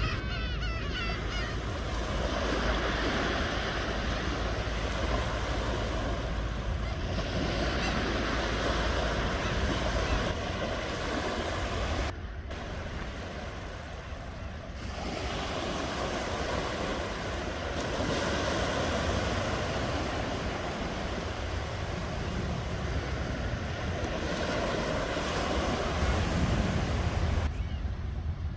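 Ocean surf: waves breaking and washing in long swells, with a steady low rumble underneath and brief lulls about twelve seconds in and near the end.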